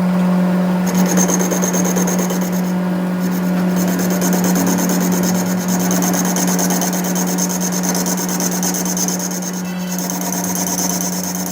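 A workshop machine running steadily with a low hum, with a rasping, hissing noise of metal being worked over it that breaks off briefly twice.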